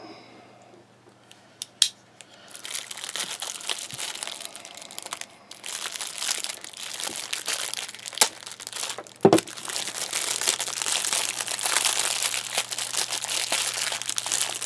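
Plastic wrapping being cut and torn open, crinkling and crackling in stretches from about two seconds in, with a few sharp clicks.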